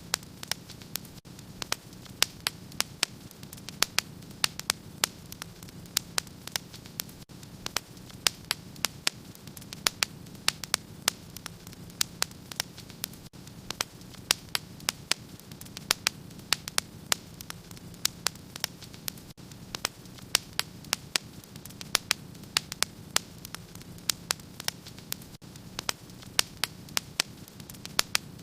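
Fire crackling in a fireplace: irregular sharp snaps and pops, several a second, over a steady low rushing noise.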